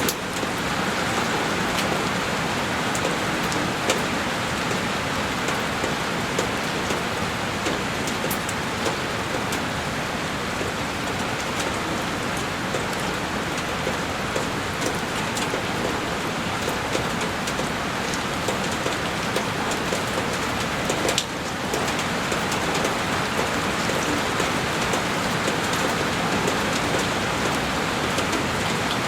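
Heavy rain falling steadily on a window pane, a dense even patter with scattered sharper drop hits. About two-thirds of the way through, the sound briefly dips and picks up again.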